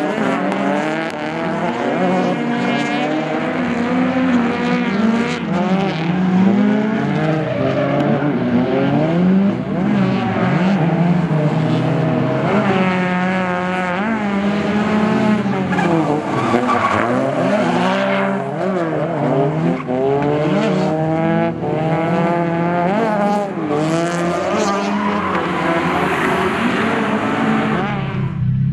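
Drift cars on a track, the engine revving up and down hard and repeatedly over tyre squeal as the car slides.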